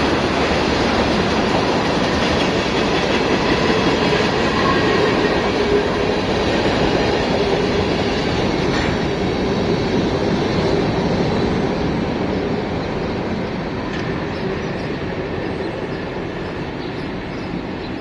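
Freight train rolling past with steel wheels running on the rails: a steady, dense rumble with faint squealing tones. It grows gradually quieter over the last several seconds as the train moves away.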